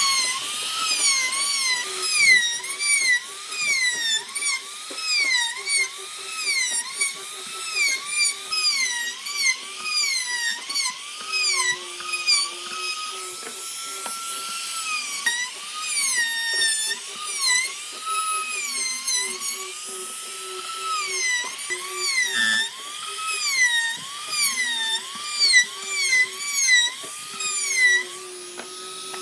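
Small high-speed rotary tool whining on wood. Its pitch sags and recovers about once a second as it is pressed into the work and eased off. There is a brief knock about three-quarters of the way through.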